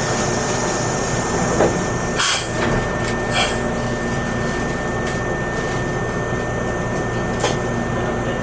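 Meitetsu limited express train running, heard from inside the car: a steady rumble with a thin, even whine, broken by a few short knocks and clatters, the loudest about two seconds in.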